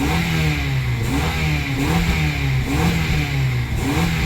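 2004 Honda Accord engine running, its pitch rising and falling regularly about once a second. It runs smoothly after a failed ignition coil was replaced.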